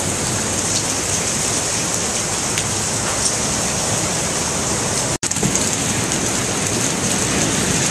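Heavy rain pouring steadily during a violent thunderstorm, with a momentary dropout about five seconds in.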